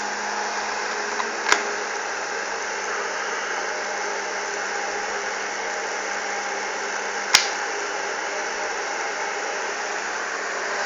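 Homemade fan built from a microwave oven's cooling fan, running steadily with a rush of air and a faint hum. Two sharp clicks cut through it, about a second and a half in and again about seven seconds in.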